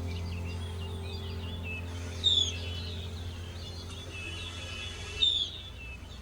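Birds chirping and calling in short, high notes, with two sharp, loud descending chirps about two seconds in and again near the end, over a steady low hum.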